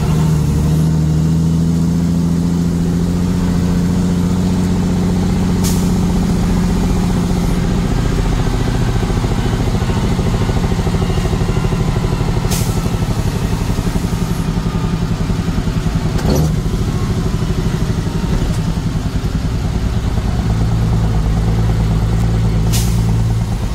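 Truck engine running steadily while driving, with a few short, sharp clicks along the way.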